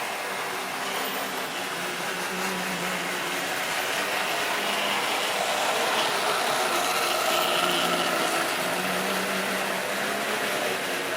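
Model train running on its track: the electric motor hums and the wheels roll on the rails, louder in the middle as it passes close and then easing off.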